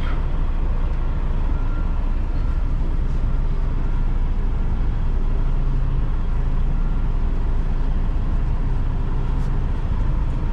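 Semi truck's diesel engine running steadily at low speed, heard from inside the cab while the rig is being backed up.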